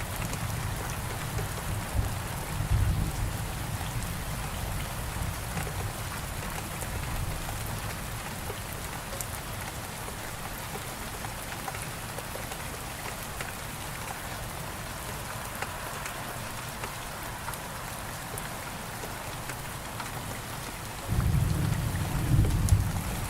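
Steady rain hiss with thunder: a low rumble that dies away over the first few seconds, and another deep roll that comes in suddenly near the end.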